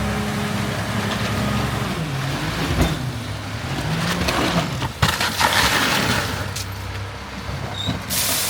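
Garbage truck's diesel engine running, its pitch rising and falling around three to four seconds in. There are noisy stretches after that and a short loud hiss near the end.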